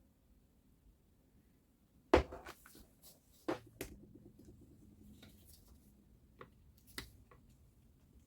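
Workbench handling noises: tools and parts of the saw being picked up and set down. A loud sharp click about two seconds in is followed by a quick run of clicks and knocks, then a few scattered lighter clicks.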